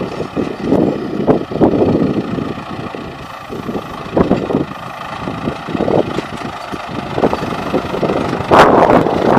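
MTZ 952.4 tractor's diesel engine running, with wind buffeting the microphone in uneven gusts and a louder rush near the end.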